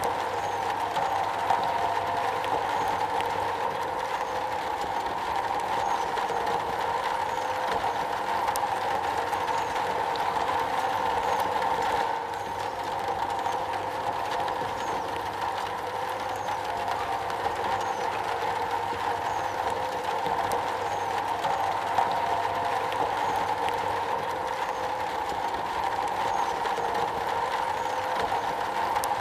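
Steady, dense rain drumming on a metal roof, with no letup.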